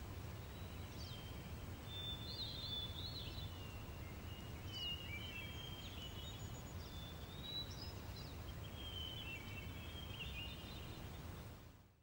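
Songbirds chirping and whistling in short, varied calls over a steady low outdoor rumble, fading out near the end.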